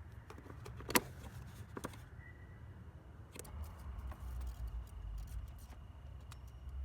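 Several sharp, small metallic clicks and knocks, the loudest about a second in and a cluster of smaller ones from about three and a half seconds, over a low rumble, with a faint steady high tone joining partway through.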